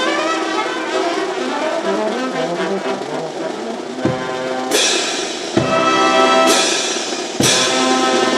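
Brass band music: trombones and trumpets playing a melody, with several loud drum and cymbal strikes in the second half.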